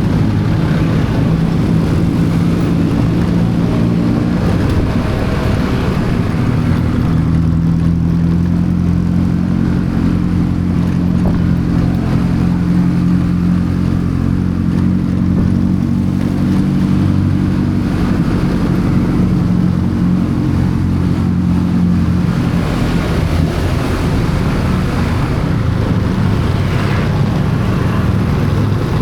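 An engine running at a steady speed, its low hum holding an even pitch, under a haze of wind and travel noise that swells near the end.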